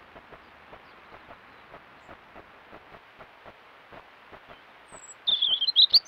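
A bird calls loudly for just under a second near the end, over a faint steady hiss broken by soft ticks about three times a second.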